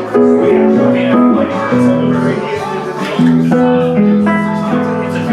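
Live country band playing an instrumental passage, guitar to the fore, with sustained plucked notes.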